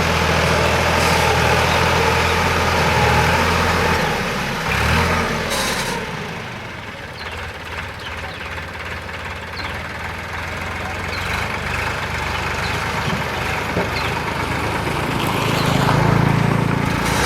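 Sonalika DI 47 RX tractor's diesel engine running steadily, then dropping quieter about five seconds in and swelling louder again near the end.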